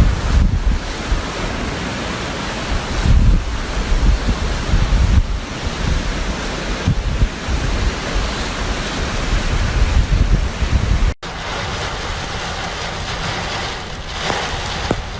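Floodwater rushing in a torrent as a steady wash of noise, with wind buffeting the microphone in low gusts. About eleven seconds in, the sound cuts off abruptly and a similar steady rushing noise takes over, with less wind rumble.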